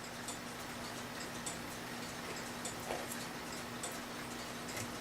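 A mechanical clock ticking steadily, a little under two ticks a second with every other tick a bit louder, over a faint steady hum.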